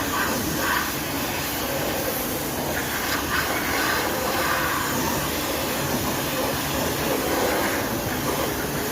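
Steady hissing machine or air noise of a body shop at work, running evenly without pauses.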